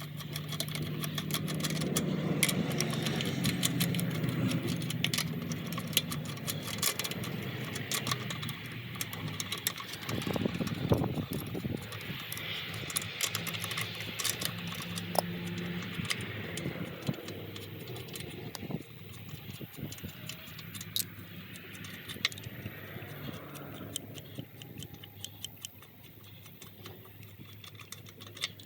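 Irregular metallic clicks and clinks of hand tools at a car wheel as it is jacked up and unbolted, over a low steady hum that is strongest in the first few seconds.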